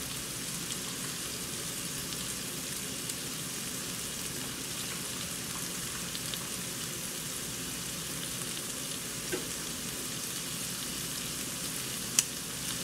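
Shrimp sizzling steadily as they fry in a hot skillet, with a single sharp click near the end.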